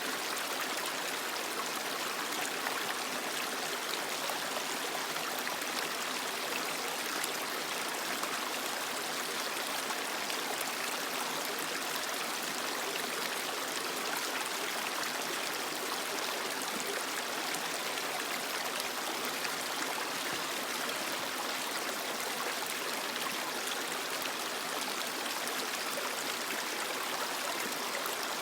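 Creek water flowing and splashing over rocks: a steady, even rush of running water.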